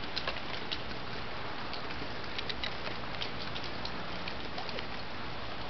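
Steady rain falling, an even hiss with scattered ticks of drops landing close by.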